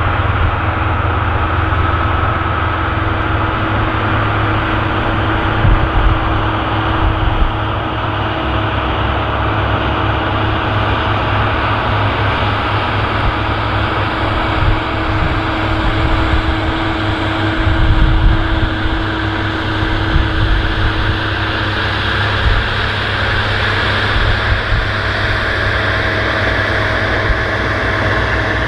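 Allis-Chalmers 7080 tractor's turbocharged six-cylinder diesel running steadily under load while pulling a chisel plow through the soil, with a strong low rumble.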